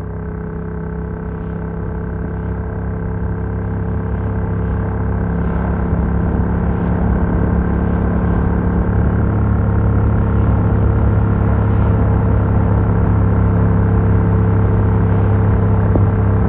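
Yamaha MT-07's parallel-twin engine through an Arrow Works full exhaust with dB killer, running at a steady engine speed while riding, its volume slowly building.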